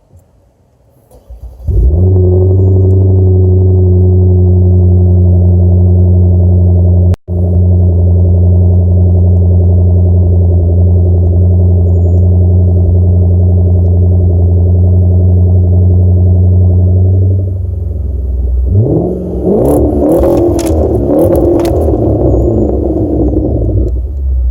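Hyundai Genesis 5.0 R-Spec's V8 with its mufflers removed, starting up about two seconds in and idling loud and steady. Near the end it is revved up and down several times.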